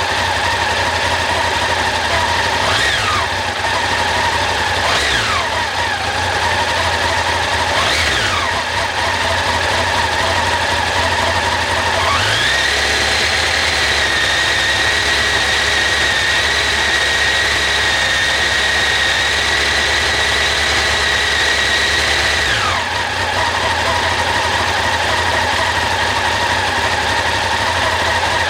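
Honda CB1100SF X11's inline-four engine idling, blipped three times, then held at raised revs for about ten seconds before dropping back to idle.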